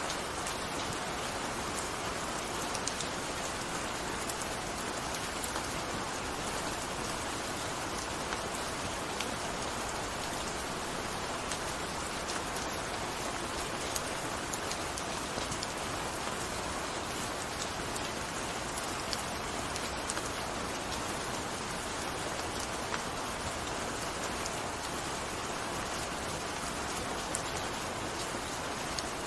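Steady gentle rain falling, an even hiss with many small drop ticks scattered through it.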